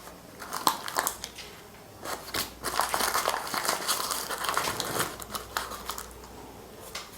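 Crinkling and rustling with scattered light clicks, densest in the middle and dying away near the end, as baking powder is measured out by hand.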